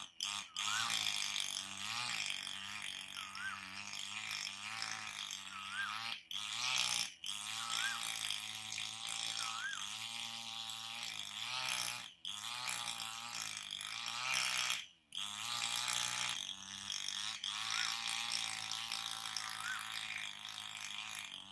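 Birds calling with short whistled notes that rise and fall, one every second or two, over a steady high insect buzz and a low hum.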